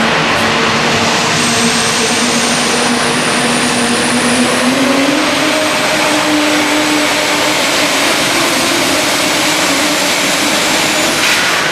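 Super stock diesel 4x4 pickup truck at full throttle pulling the sled, its engine note rising about halfway through under a loud rush of exhaust noise. A thin, high turbocharger whistle climbs over the first few seconds.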